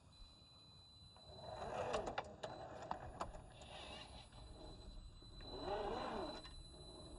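A 1/10 scale RC crawler's electric motor and gears whine in two surges, the pitch rising and falling, about two seconds in and again near six seconds. Small clicks and crunches of tyres on dirt and stones come with the first surge.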